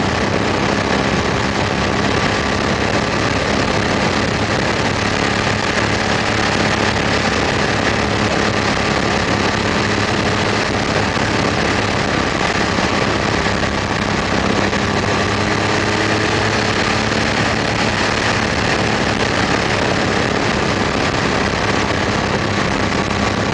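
BMW motorcycle engine running at a steady, unchanging speed while cruising, with wind and road noise over it.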